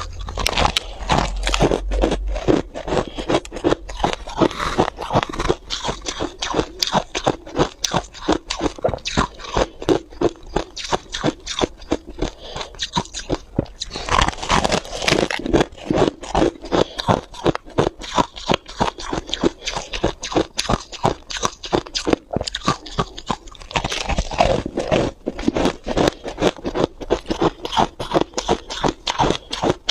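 Freezer frost being bitten and chewed close to the microphone: a continuous run of rapid, crisp crunches, busier in spells.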